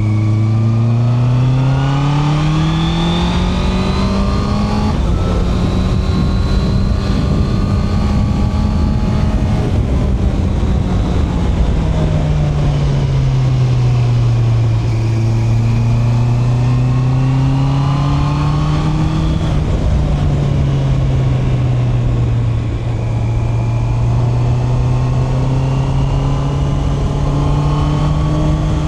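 Honda CB650R's inline-four engine accelerating, its note climbing smoothly over the first few seconds and holding high. About ten seconds in it eases off, then settles to a steady lower cruising pitch with small rises, over constant rushing noise.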